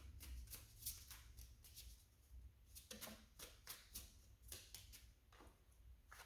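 Tarot cards being shuffled by hand: a faint, irregular run of quick soft card slaps and flicks.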